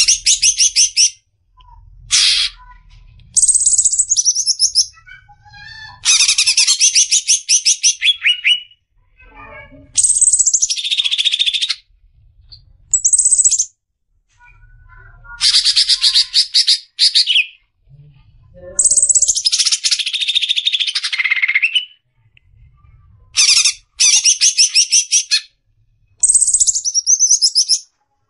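Green leafbird (cucak ijo) singing in rapid-fire bursts of fast, high chattering trills and whistled notes. Each burst lasts a second or two, with short pauses between them.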